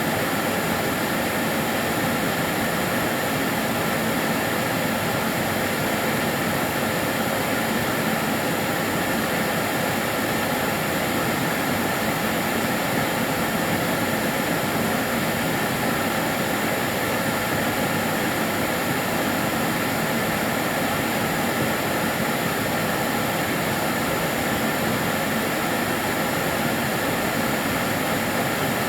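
Karcher DS 6 Premium water-filter vacuum cleaner running steadily, a constant rushing hum of its motor and airflow with a faint high whine over it.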